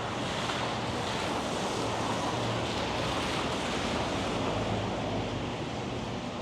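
Steady rushing noise of wind and traffic on a city street, swelling a little in the middle, with a low engine hum underneath.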